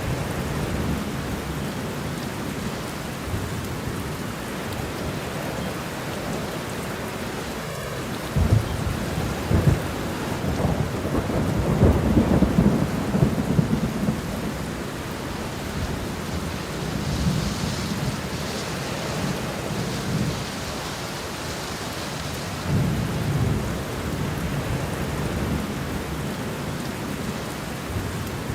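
Steady rain falling, with thunder rumbling low underneath: a long roll builds about eight seconds in and peaks a few seconds later, and a shorter rumble follows about two-thirds of the way through.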